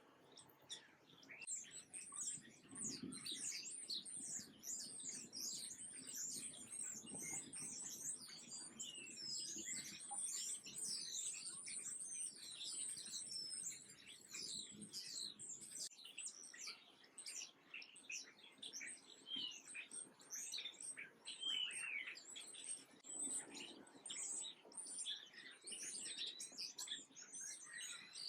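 Small birds chirping and twittering, many short high calls overlapping without a break, busiest in the first half, with a few falling notes later on.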